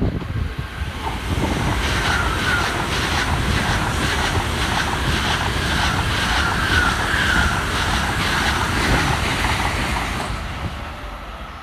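N700A-series Shinkansen train running into the station: a loud, steady rush of wheels and air, with a rapid clatter of wheels over the rails and short repeated whining chirps. It fades near the end as the train draws away down the platform.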